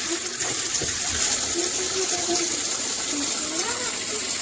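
Water spraying steadily from a running shower head, a dense even hiss.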